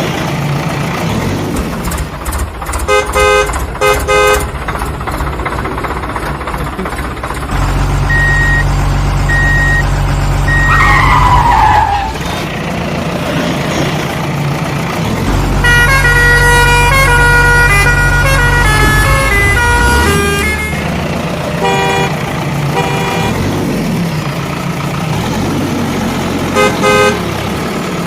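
Cartoon vehicle sound effects: engine hum in two long stretches, short horn toots in pairs several times, a falling whistle about eleven seconds in, and a stretch of horn-like tones playing a tune.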